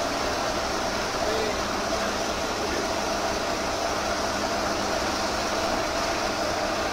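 Heavy machinery engine running steadily at an even speed, a constant drone with a steady hum in it.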